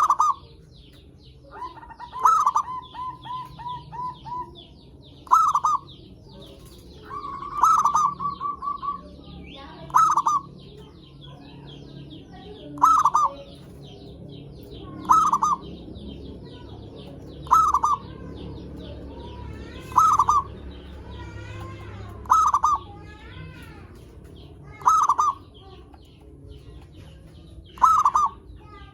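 Zebra dove (perkutut) cooing: a short loud call repeated about every two and a half seconds, two of them near the start running on into a quick stutter of notes. Faint high chirping of small birds runs underneath.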